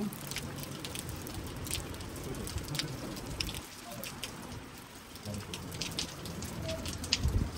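Rain falling, the drops striking nearby surfaces as irregular sharp ticks over a steady low rumble, with a louder low bump near the end.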